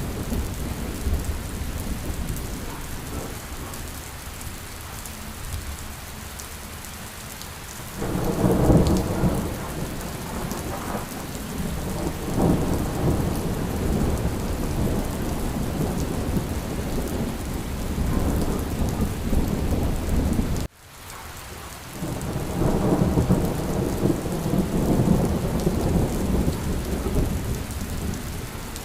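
Steady rain falling, with low rolling thunder swelling up about eight seconds in and again after a brief sudden dip in the sound about two-thirds of the way through.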